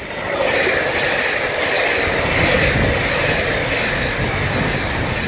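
Express train passing close by at speed: a loud, steady rush of wheels on rails that builds in the first half second and holds while the carriages go past.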